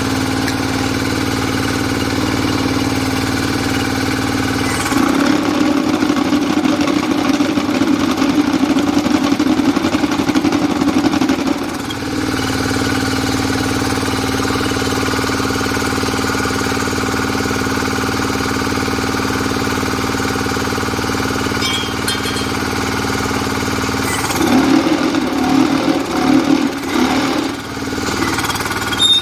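Diesel engine of a QTJ4-40 hydraulic interlocking block machine running steadily with an even hum. Twice it turns louder and rougher with a rattling vibration, about 5 s in for some seven seconds and again near the end, then settles back to the steady run.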